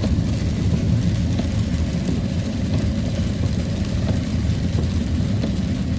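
Steady low rumble of a pickup truck's engine and road noise heard from inside the cab while driving.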